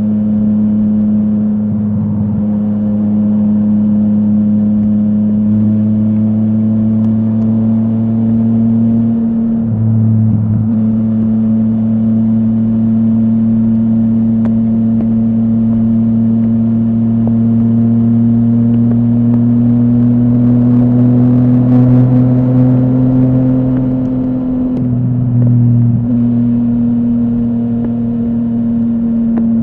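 Yamaha MT-09's inline-three engine through a full Akrapovic exhaust, running at a steady cruise. The note holds nearly one pitch, climbs slightly, and dips briefly about ten seconds in and again near twenty-five seconds.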